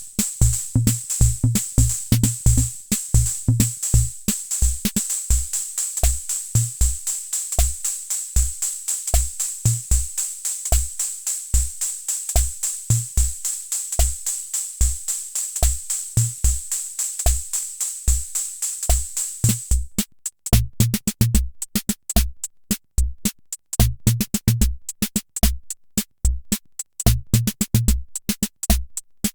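Hammond Auto-Vari 64 mid-1970s analog rhythm machine playing a preset beat: low bass-drum thumps under a steady high cymbal hiss. About two-thirds of the way through the pattern switches to another beat, with crisp separate hi-hat ticks in place of the hiss.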